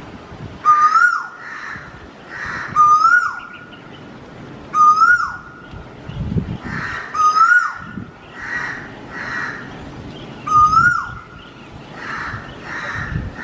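A bird calling over and over, about every two seconds. Each call is a short whistled note that rises a little, holds, then drops away sharply, with a high chirp above it and softer calls in between.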